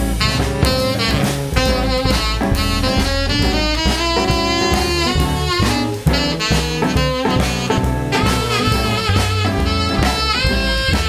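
Live blues band playing an instrumental break: a saxophone solo line over bass and drum kit.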